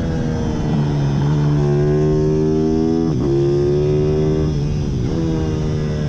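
Pit bike engine running hard, its pitch climbing and dipping sharply three times, about one, three and five seconds in.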